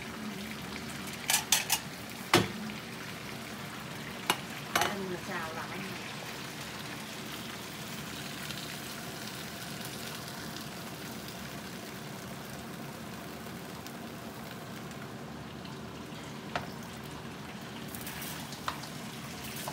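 Lobster pieces sizzling in hot oil in a wok, a steady frying hiss. A spatula knocks and scrapes against the wok several times in the first five seconds.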